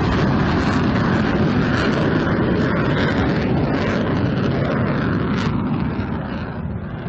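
Fighter jet engine roar just after a low pass, a dense rushing rumble that holds steady, then fades and loses its high edge from about six seconds in as the jet flies away.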